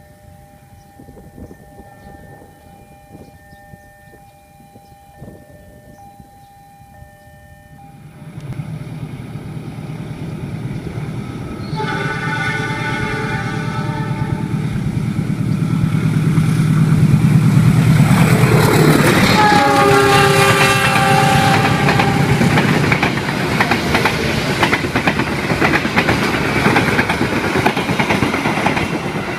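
A long passenger train approaches and passes close by. Its locomotive sounds a long horn from about twelve seconds in and again around nineteen seconds, the second blast dropping in pitch as the locomotive goes by. Then the carriages rumble past with rapid wheel clatter over the rail joints. Before the train, for the first several seconds, there are only faint repeating tones.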